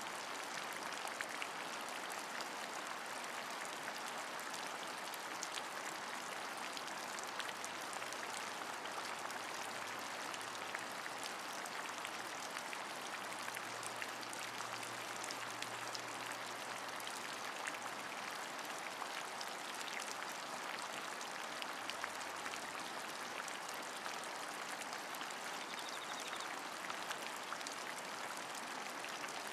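Steady rain falling, an even hiss of rainfall with many small individual drop ticks scattered through it.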